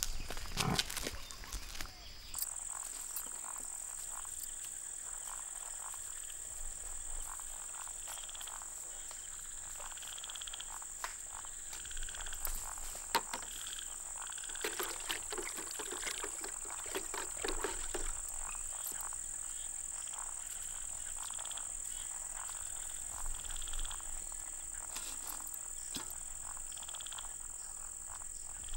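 Night ambience: a steady high insect drone with frogs croaking about once a second, and a few scattered clicks and rustles. It starts about two seconds in, after a brief stretch of rustling and movement.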